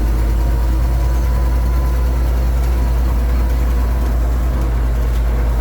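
1928 Graham Brothers truck's six-cylinder engine running steadily under way in second gear: a loud, even low drone with a thin steady whine above it.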